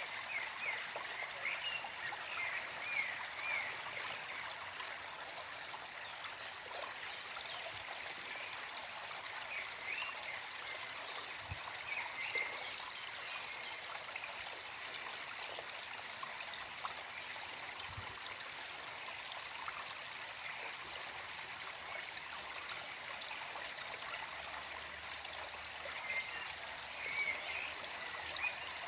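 Gentle forest stream flowing steadily, with birds singing over it: a quick series of chirps in the first few seconds, a few more around the middle, and another series near the end.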